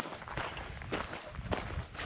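Footsteps of a hiker walking on a desert trail, about two steps a second, with a low rumble underneath.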